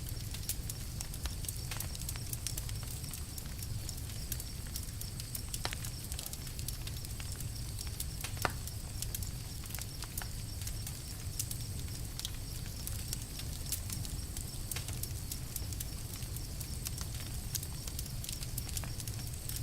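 Campfire crackling, with frequent small irregular pops and one sharper pop about eight and a half seconds in, over a steady low rumble.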